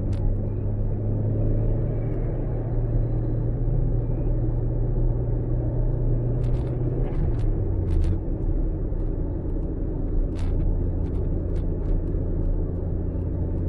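Car in motion with a steady low rumble of engine and road noise, a few faint clicks in the middle. The car has static dischargers fitted, which the owner finds make it very quiet.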